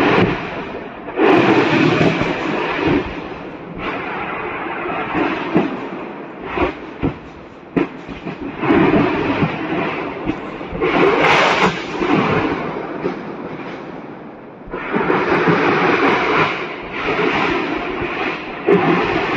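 A burning ammunition depot with munitions cooking off: a continuous crackling rush that swells and fades in surges every few seconds, dotted with many sharp pops and bangs.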